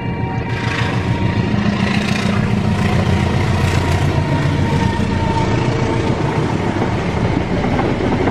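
Diesel locomotive of a passenger train passing close by, its engine running with a steady low drone, joined about half a second in by a rising hiss of wheels on rails.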